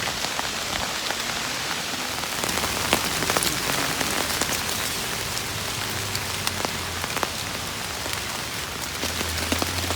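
Steady rain falling on a small camping tarp overhead: a dense, even hiss with many sharp drop hits.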